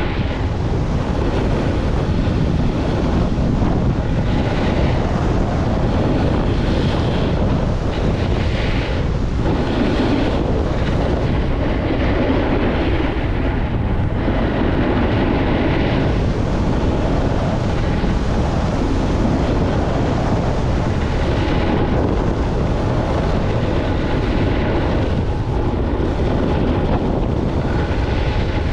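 Wind buffeting the microphone: a loud, steady rushing noise with swells every few seconds.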